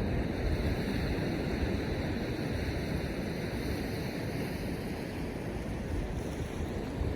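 Ocean surf washing on the shore in a steady hiss, with wind gusting on the microphone as low, uneven rumbles.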